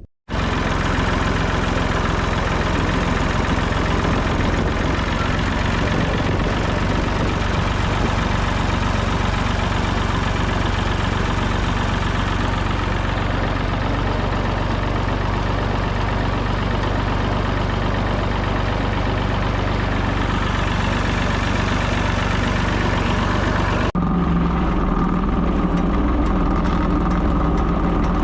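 Ford 3000 tractor engine running steadily under way. About 24 seconds in, the sound changes abruptly to a duller engine hum with less hiss.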